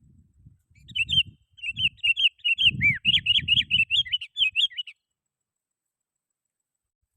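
Sooty-headed bulbul (kutilang) singing a fast run of short whistled notes for about four seconds, then stopping.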